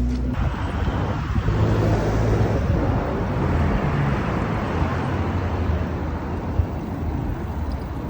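Road traffic: a motor vehicle passing close by, its noise swelling suddenly just after the start, loudest about two seconds in, then slowly fading.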